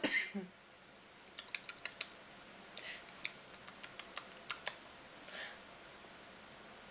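A spoon clicking and tapping against a bowl while feeding a baby: a string of light, quick taps between about one and five seconds in.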